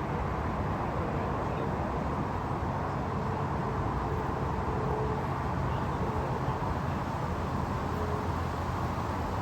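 Waterfall: a steady rush of falling water, deep and even, with no break.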